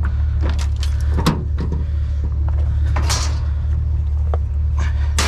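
Vehicle engine idling with a steady low hum, with a few knocks and clunks, the loudest about a second in, and a brief rustle near the middle.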